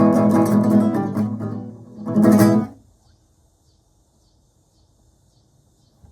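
Acoustic guitar playing a blues tune, closing with one loud final strummed chord about two seconds in that rings out and fades within a second. Then only a faint, high, repeating chirp remains.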